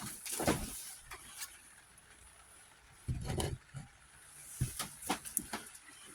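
Scattered knocks and clunks of metal parts and tools being handled and set down, with a louder low thump about three seconds in.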